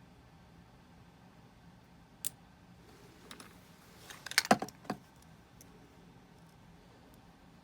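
Small metal hand tools and parts clicking and clattering on a jeweller's bench: a single sharp click about two seconds in, then a short burst of clicks and clatter a little past four seconds, with a few faint ticks after.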